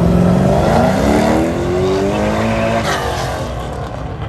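Corvette's V8 accelerating hard on an autocross course: the engine pitch climbs steadily, drops sharply about three seconds in, and the sound then fades as the car pulls away.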